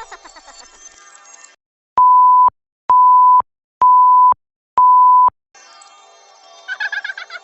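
Electronic beep sound effect: four identical steady high-pitched beeps, each about half a second long, evenly spaced a little under a second apart.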